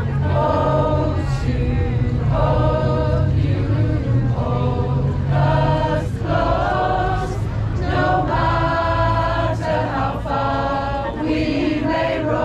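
A choir singing together in phrases with short breaks between them, over a steady low rumble.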